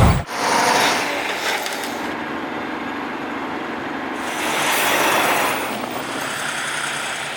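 Heavy logging-truck or machinery noise: a steady mechanical rush that swells about five seconds in.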